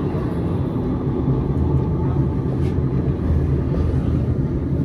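Steady low rumble of a Gornergrat Railway electric rack-railway train running on its track, heard from inside the carriage.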